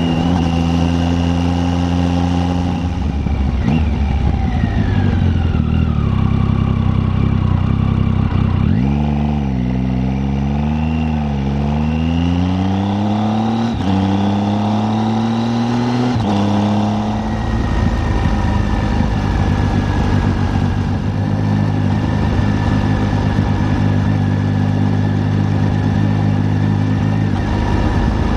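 Triumph Tiger 800's three-cylinder engine running under a rider at low speed. Its revs hold steady, then rise and fall several times in the middle with a few sudden steps in pitch, before settling into a steady note again.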